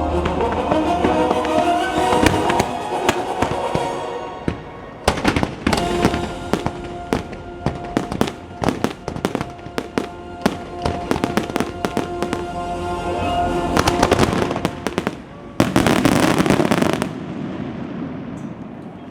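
Fireworks bursting over show music: a rapid run of sharp bangs from about five seconds in, then a dense burst of crackling near the end that dies away.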